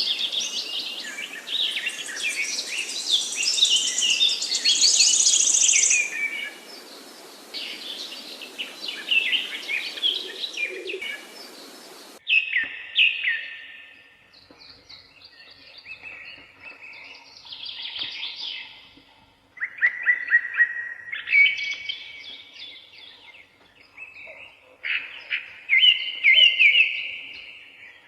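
Several songbirds singing in a forest, with quick chirps and trills overlapping. About twelve seconds in, the background hiss stops abruptly and the song turns sparser, with repeated short trilled phrases.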